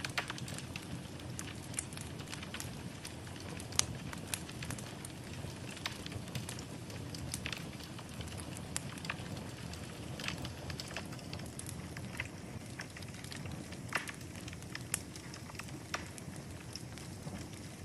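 Wood fire in a fireplace crackling, with frequent irregular sharp pops and snaps over a steady low rustle of burning.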